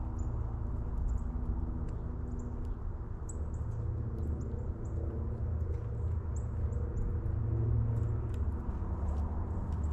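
Small birds at backyard feeders giving many short, high chirps over a steady low mechanical rumble and hum.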